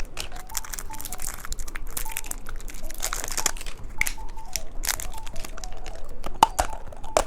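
Plastic candy wrapper being crinkled and torn open, with irregular crackling throughout.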